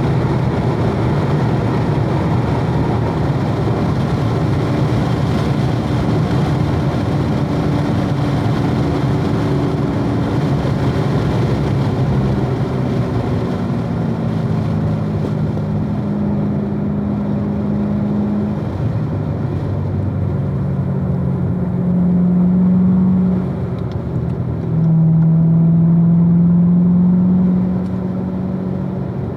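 2016 Corvette Z06's supercharged 6.2-litre LT4 V8 running hard on track, its note rising and falling with throttle and gear changes. There are two louder pulls near the end.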